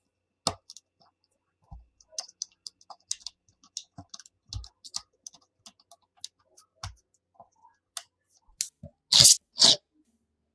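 Coloured magnetic building pieces being handled and clicking together: a run of small, irregular clicks and taps, with two louder rattling snaps close together near the end.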